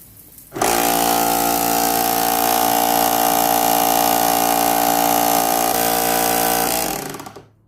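Kärcher pressure washer motor switched on about half a second in, running steadily with a very strange noise, then switched off and running down near the end. The noise comes from the motor's cooling fan catching on the housing, where a nail had been fitted in place of the proper retaining clip.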